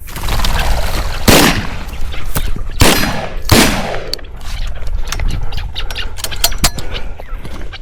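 Shotgun fired at flushing chukar: three loud blasts in quick succession, the last two less than a second apart, each trailing off, followed by scattered sharp clicks and rustling. A steady low wind rumble sits underneath.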